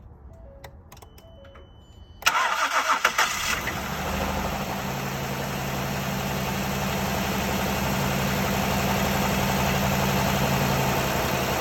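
Car engine restarted after stalling: a few faint clicks and short beeps, then the starter cranks for about a second and the engine catches and runs at a steady idle.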